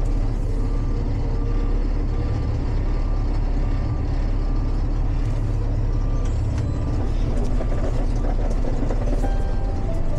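Heavy diesel truck engine running with a steady low rumble, while a reversing alarm beeps repeatedly for the first few seconds and again around six seconds in.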